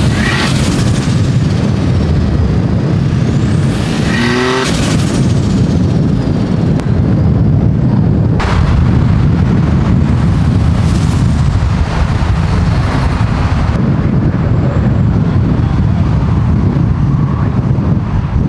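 Car engines and exhausts running loudly as cars drive past, with a rising rev about four and a half seconds in.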